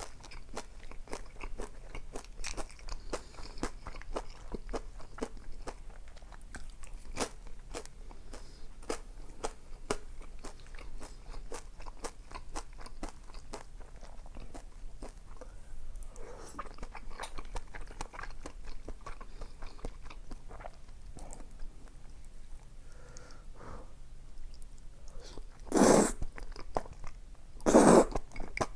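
Close-miked eating: steady chewing and biting with many small crunches and mouth clicks, then two louder, half-second bursts about two seconds apart near the end.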